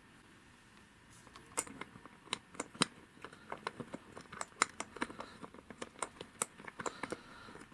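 Irregular sharp clicks and light taps of small metal parts being handled and fitted while reassembling a wheelchair's rear wheel, starting about a second and a half in and coming several times a second.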